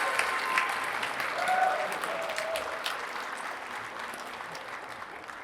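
Audience applauding at the end of a song, the clapping gradually dying away, with a few voices calling out over it about two seconds in.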